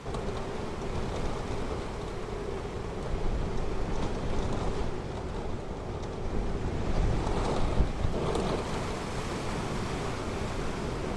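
Ocean surf washing onto the shore, swelling louder about three seconds in and again about seven seconds in, with wind buffeting the microphone.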